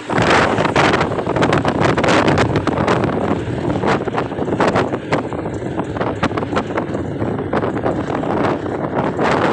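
Wind buffeting the microphone over the steady noise of a moving vehicle on the road, with many short gusty thumps and no clear engine note.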